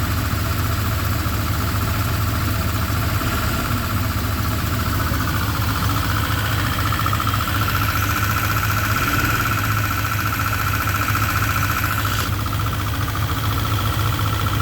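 Rebuilt 5.7-litre V8 with a stage 2 cam idling steadily in a 1989 Chevy pickup; the owner says this idle surges and sags to about 500 rpm in gear with the A/C on. A whine runs over the engine, rising a little about six seconds in, and a second, higher whine cuts off suddenly about twelve seconds in.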